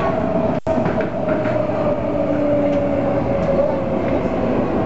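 MTR A-Train electric multiple unit running along the line, heard from inside the train: steady rolling and running noise with a steady whine. The sound cuts out briefly just over half a second in.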